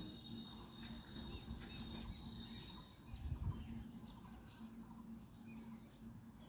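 Birds chirping faintly over a low rumble, with a low thump about three and a half seconds in.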